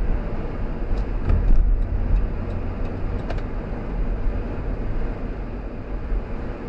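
Car driving along a road: steady low engine and tyre rumble, with a few faint short clicks about a second in and again a little after three seconds.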